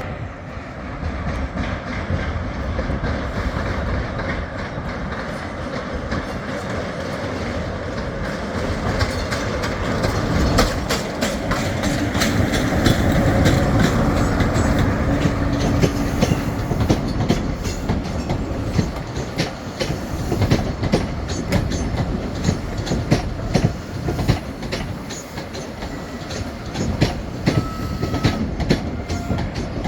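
Class 47 diesel locomotive running through the station, its engine rumbling, loudest about halfway through with a steady droning note. Wheels click over the rail joints through the second half.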